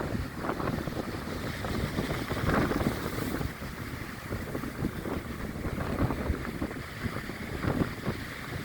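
Strong wind gusting across the microphone by the sea, a rough buffeting rumble that swells and eases from gust to gust.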